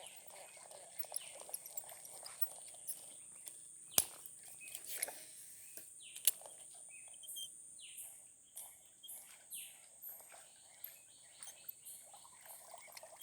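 Outdoor nature ambience: a steady high insect drone with short falling bird chirps and scattered small clicks, one sharp click about four seconds in.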